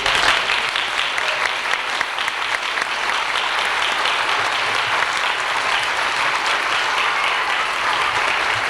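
Audience applauding: sustained, even clapping from a large crowd in a hall.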